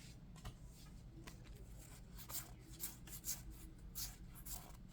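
Faint rustling and short scrapes of Yu-Gi-Oh! trading cards being handled and flipped through, coming more often in the second half.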